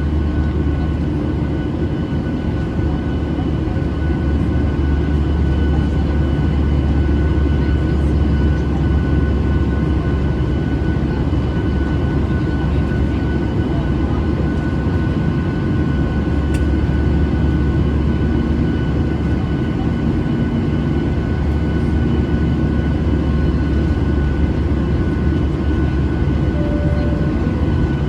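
Steady cabin noise inside a Boeing 737-800 airliner: a deep rumble and airflow hiss from its CFM56 jet engines, with faint steady whining tones over it.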